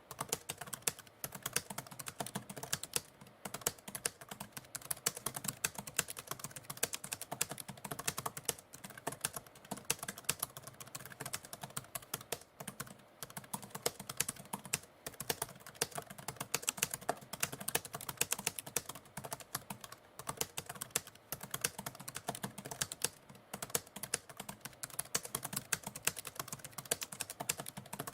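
Typewriter keys clacking in a rapid, continuous stream of strikes, with brief pauses now and then.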